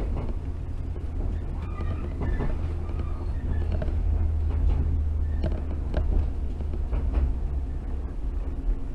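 Cabin sound of a JR 115 series electric train running on the line: a steady low rumble of wheels on rails with scattered sharp clicks.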